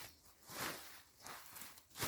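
Slow footsteps, one soft scuffing step about every three-quarters of a second.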